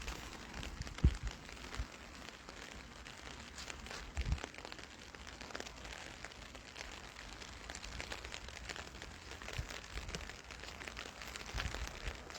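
Light rain pattering: a faint steady hiss dotted with small irregular ticks, with a few soft low thumps about a second in and around four seconds.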